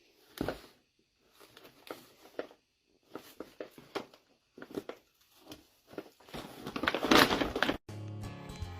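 Scattered knocks and rustling, then a louder noisy scuffle about six to seven and a half seconds in. Background music starts suddenly near the end.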